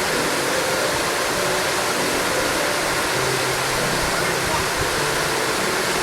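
Steady rushing water, like a stream or small waterfall, with faint voices under it.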